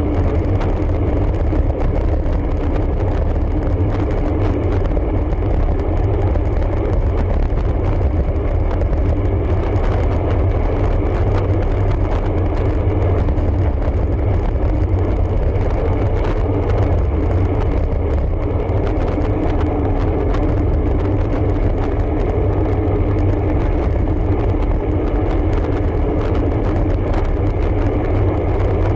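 Steady wind rush on the microphone with road noise from a road bike in motion, heaviest in the low rumble, with a steady hum underneath.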